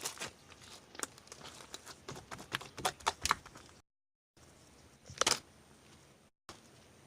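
Opaque blue slime being squished and pressed by hand, making a run of sharp clicks and pops, densest at first, with a louder cluster about five seconds in. The sound cuts out completely for about half a second a little before the middle.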